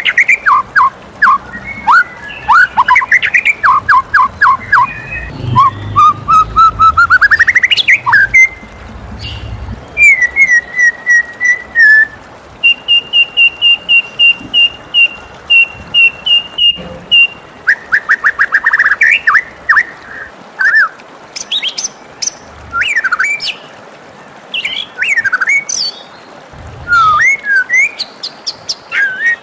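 White-rumped shama singing a long, varied whistled song: quick up-and-down notes, fast rising glides, and in the middle a run of rapid repeated high notes.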